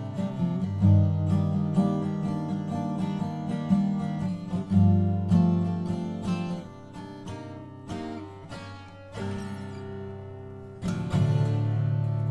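Seagull S12 Coastline 12-string acoustic guitar, freshly restrung, being strummed and picked, its chords ringing out. There are strong strums about a second in, near five seconds and again near eleven seconds.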